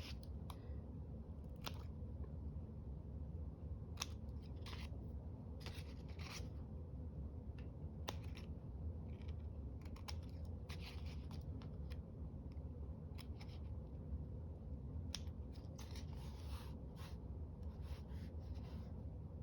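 Scissors cutting paper in short, irregular snips and slides, over a low steady hum.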